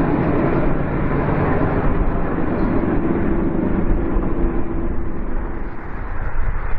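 Freight train rolling across a railroad bridge, a steady rumble and hum that eases off in the last couple of seconds as the train moves on, with wind on the microphone.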